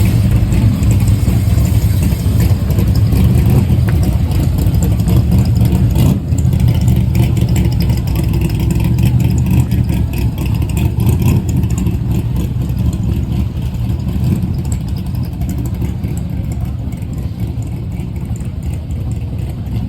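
Car engine running steadily with a low, even drone.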